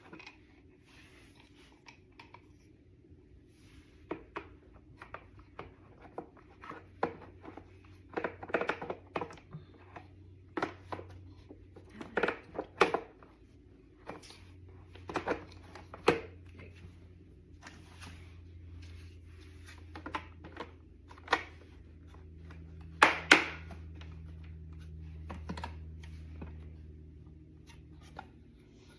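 Irregular knocks, clicks and clatter of objects being handled, a few sharp ones louder than the rest, over a faint low steady hum.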